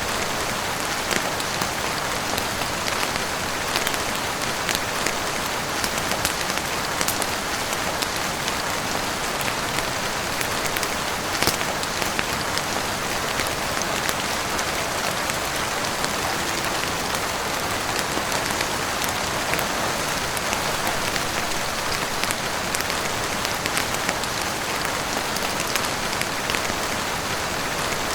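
Steady heavy rain falling on a roof, with scattered sharp crackles and pops from a wood fire burning in a fireplace.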